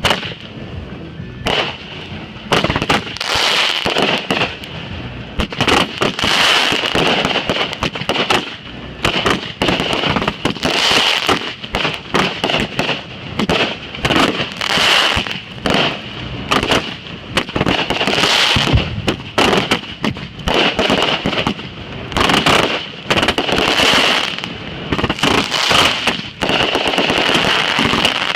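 Consumer fireworks firing a continuous barrage, with sharp shots and bursts coming one or two a second and a steady crackle running between them.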